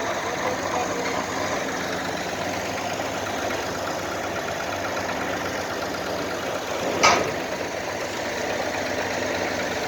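Engine idling steadily, with one sharp knock about seven seconds in.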